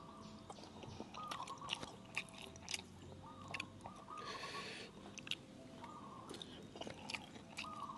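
A person chewing a mouthful of spicy papaya salad close to the microphone: wet crunching and smacking, with many short sharp clicks. There is a brief breathy hiss a little after four seconds.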